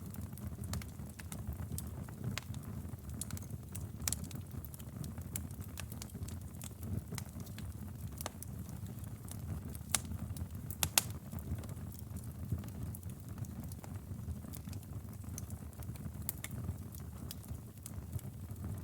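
Wood fire burning in a fireplace: a steady low rush of flame with scattered sharp crackles and pops, two louder pops about ten and eleven seconds in.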